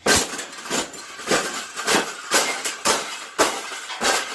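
A series of sharp taps and clinks on a hard object, roughly two a second and unevenly spaced.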